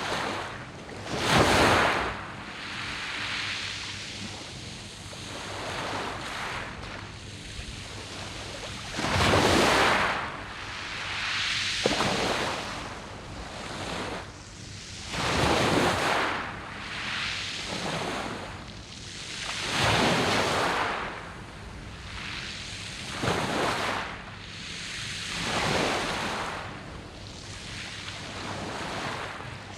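Sea waves breaking and washing over a pebble beach, surging up every three to five seconds with a steady wash of surf between.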